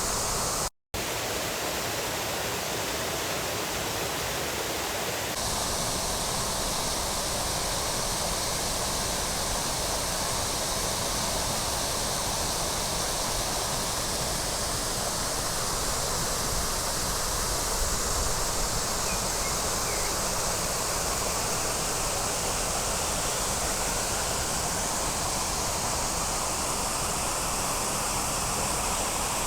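Waterfall's steady rush of falling water, with a brief dropout about a second in.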